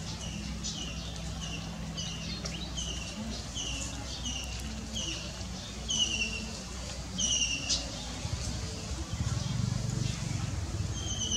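A bird calling a quick series of short, high, downslurred chirps, about two a second. It stops for a few seconds, then gives two longer descending notes near the end, over a low steady hum.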